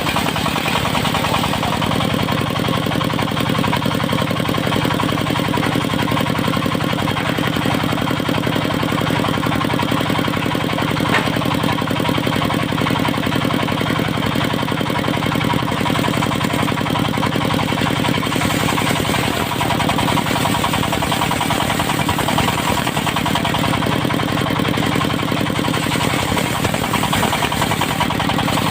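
Engine of a portable circular sawmill running steadily and loudly, with a slight change in its note around two-thirds of the way through.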